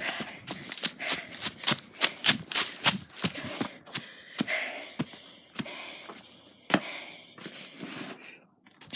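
Footsteps crunching in snow, quick and irregular for the first few seconds, then slower and sparser.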